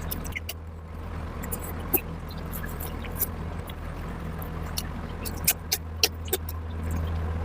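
A person eating curry and rice: scattered wet clicks and smacks of chewing, a few louder ones near the end, over a steady low hum.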